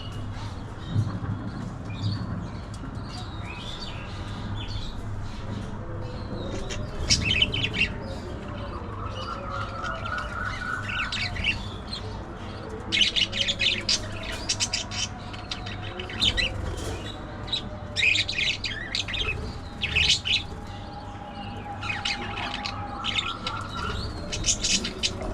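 Budgerigars chirping and chattering in bursts, with a couple of short rising warbles between them, over a steady low hum.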